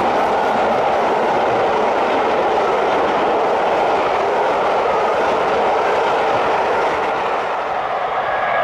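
Passenger coaches of a steam-hauled train passing close by at speed: a loud, steady rush of wheels on the rails. It eases slightly near the end as the last coach goes by.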